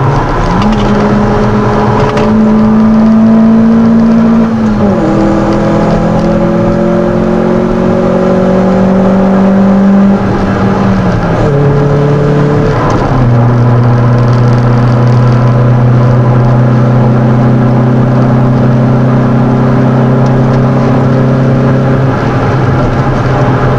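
1997 Mitsubishi Colt 1600's engine heard from inside the cabin under load on track, its pitch climbing slowly and dropping sharply twice, about five seconds in and again around twelve seconds in, then holding nearly steady.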